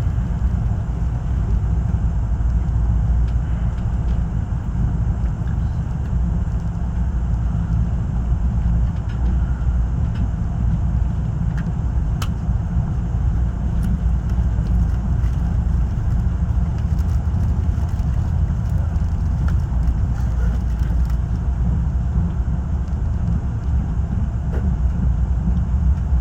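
Saemaul-ho passenger train running: a steady low rumble with a few faint clicks.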